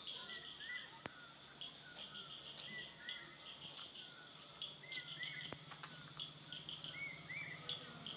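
Small birds calling outdoors: short repeated chirps and trains of rapid high pulsed notes, in bursts throughout. A low steady hum comes in about halfway through.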